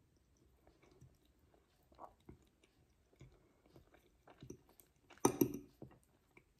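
Close-up chewing of a mouthful of spaghetti, with soft wet mouth clicks and one short louder burst about five seconds in.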